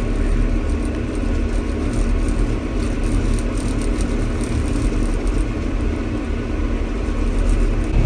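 John Deere 6145M tractor engine running steadily while driving, heard from inside the cab as a constant low rumble.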